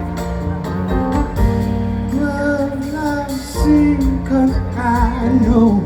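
Live blues-rock band playing, with drum hits and a lead melody that bends and slides in pitch.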